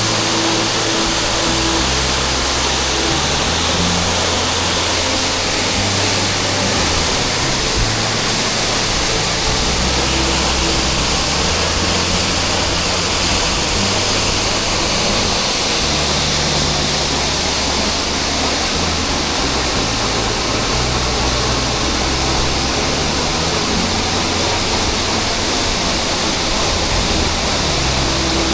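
Steady, loud roar of a waterfall's falling water, with background music's bass notes stepping along underneath.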